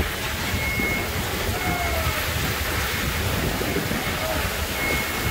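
Heavy rain pouring down in a severe thunderstorm, a steady hiss, with strong wind buffeting the microphone in a low, uneven rumble.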